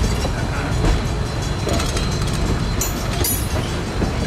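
Passenger train rolling along the rails: a steady low rumble with wheels clicking and clattering over the track at irregular moments.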